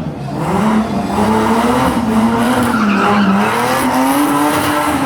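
Car engine held at high revs, its pitch wavering, dipping near the start and again about three seconds in, then rising.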